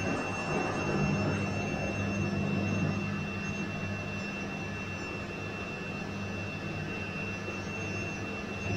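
Bosch washing machine running: a steady high-pitched whine over a low motor hum and the churning noise of the drum, the hum swelling for the first few seconds, then settling.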